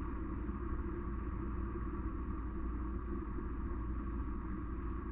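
Water heating in a GEVI 4-in-1 coffee machine's kettle, a steady low rumble with a faint hiss as it nears 208°F, just short of the boil.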